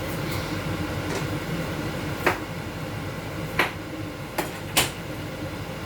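A cooking utensil knocking against a pot of simmering curry four times, two of them close together near the end, over a steady low hum.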